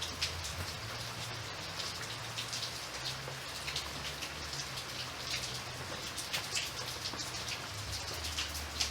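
Steady rain, with many separate drops pattering over an even hiss and a low rumble underneath.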